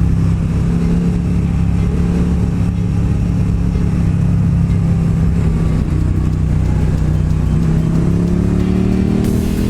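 Motorcycle engine running on the road at a fairly steady pace, its pitch easing slightly and then rising about eight seconds in as the bike accelerates.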